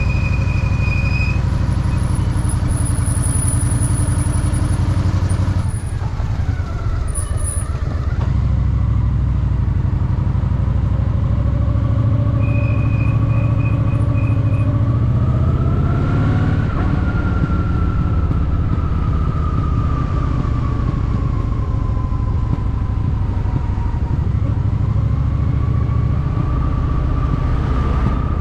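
Honda Shadow VT750's V-twin engine running on the move, its revs rising and falling as it accelerates and eases off. A short high tone sounds at the start, and a brief run of high beeps comes about halfway through.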